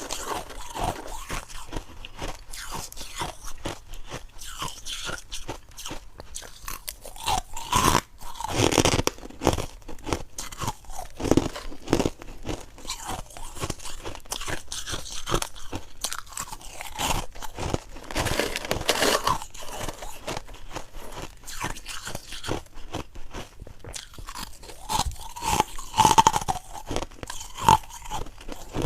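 Close-up crunching of white ice being bitten and chewed: a continuous run of sharp, crackly crunches, with several louder bites spread through it.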